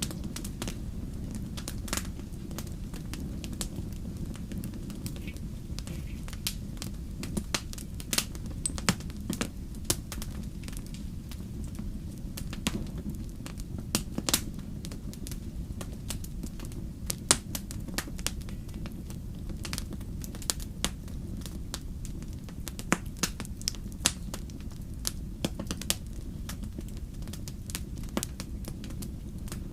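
Fire crackling: irregular sharp pops and snaps, several a second at times, over a steady low rumble.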